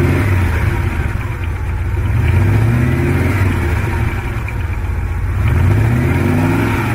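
Maserati Mexico V8 engine accelerating hard, its note climbing in pitch several times in a row.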